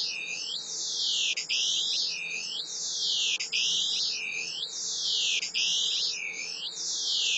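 vOICe image-to-sound software turning a live webcam picture of a face into sound: a dense, hissy band of shifting high tones that sweeps through one image scan about every second, over and over, with a brief break between scans. A faint steady hum runs underneath.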